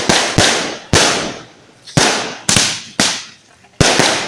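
Fireworks going off in an irregular string of sharp bangs, about two a second, each one trailing off in a short echo.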